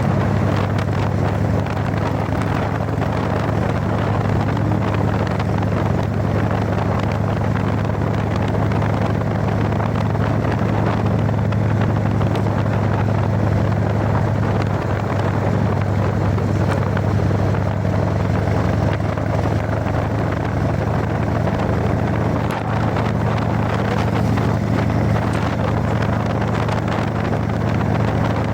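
Harley-Davidson Evolution air-cooled V-twin engine running steadily on fresh engine oil, with wind on the microphone.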